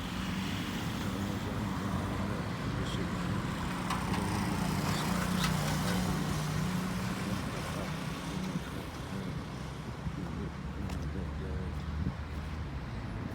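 A motor vehicle's engine running: a steady low hum that grows louder about halfway through and then eases off, as of a vehicle passing.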